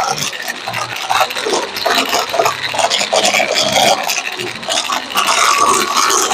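Vacuum cleaner brushroll bristles scraping and rubbing against a microphone, an irregular crunchy scratching with many small clicks.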